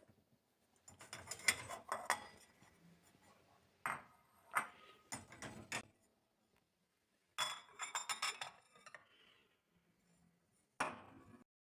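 Dishes, cutlery and glassware clinking and knocking as they are handled, in four separate bursts of clatter, some clinks ringing briefly.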